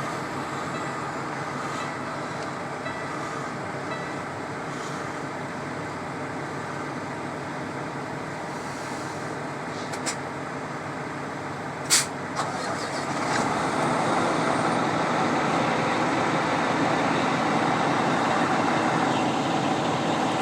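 Semi truck's diesel engine running steadily, with a sharp click about twelve seconds in, after which the engine runs louder and stays there.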